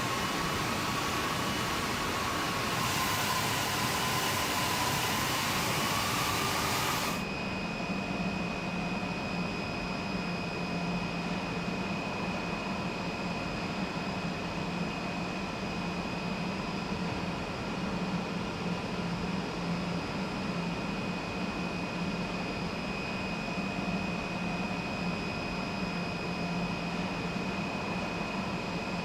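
Industrial machinery running on a steel hot-dip galvanizing line. A loud hiss with a wavering whine changes abruptly about seven seconds in to a steady mechanical hum with a low drone and a high, constant whine.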